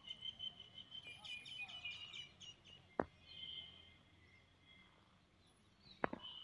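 Small birds chirping outdoors, with quick high trilled notes through the first three seconds and a shorter call just after. A sharp click about three seconds in and another near the end.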